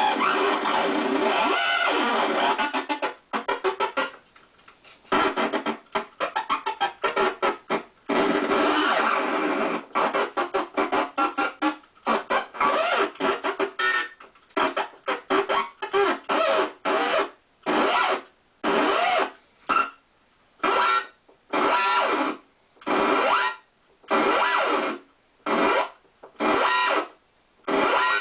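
Homemade 40106 CMOS hexaphonic noise synth playing through its small onboard speaker: a dense, buzzing squawk of several tones at once. It is held for the first few seconds, then chopped into fast stuttering bursts, and in the second half pulsed on and off about once a second.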